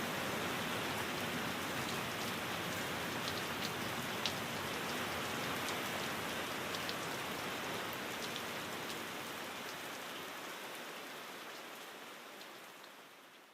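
Steady rain falling, an even hiss with a few sharp drip-like ticks, fading gradually over the last few seconds.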